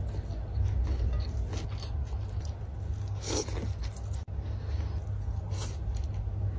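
Close-miked chewing and biting of battered fried tempeh and fried tofu, with a few crisp crunches, the clearest about halfway and near the end, over a steady low rumble.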